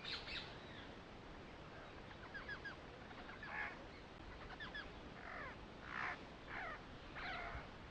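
Birds calling: a series of short calls and chirps over faint background hiss, some in quick runs of three.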